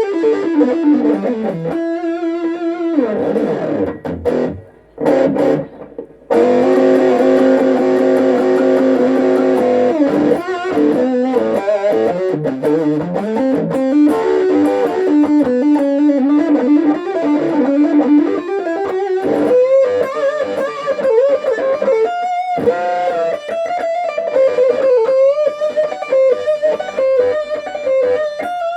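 Vintage V100 electric guitar played through a Peavey Backstage Plus amplifier. It plays single-note lines with sliding pitches and wavering held notes, breaking off briefly about four to six seconds in.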